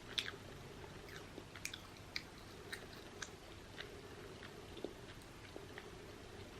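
Chewing a crunchy fried corn dog: irregular crisp crackles of the fried batter, the sharpest just after the start, then smaller ones spread through.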